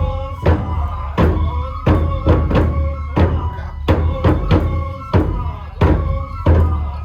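Music for a nenbutsu kenbai sword dance: a taiko drum strikes a steady, regular beat, about one or two strokes a second, under a sustained melody line.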